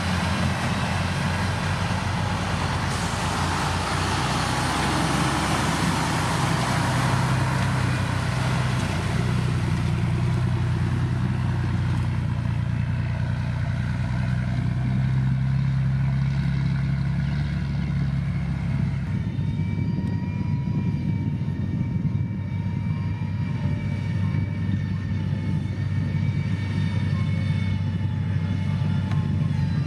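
Heavy diesel engine of a motor grader running steadily under load, its engine note shifting about two-thirds of the way through.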